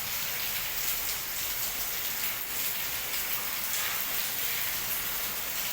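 Steady hiss of falling water, like heavy rain or water pouring in through a leak during a flood.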